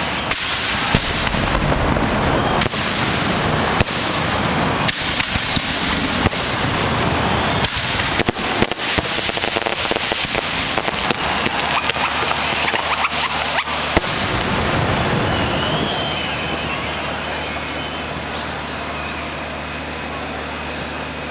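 Aerial fireworks going off in a rapid string of bangs and crackles, densest about eight to nine seconds in. About fourteen seconds in they ease off to a steady background hiss with few bangs.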